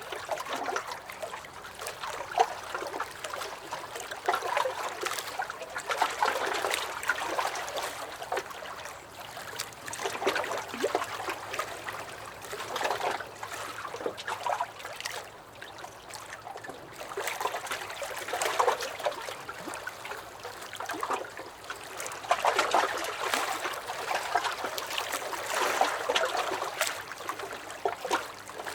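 Small lake waves lapping and sloshing against a wooden dock, in uneven swells every few seconds, with small splashes and trickles between them.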